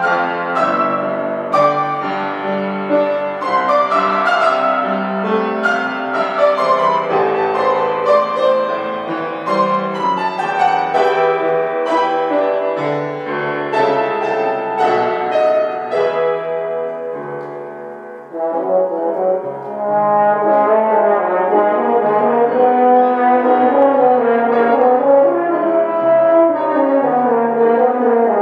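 Instrumental music: a brass instrument playing a slow melody with piano accompaniment. The piano's struck notes lead at first and fade about two-thirds of the way through, then the brass comes in louder with long held notes.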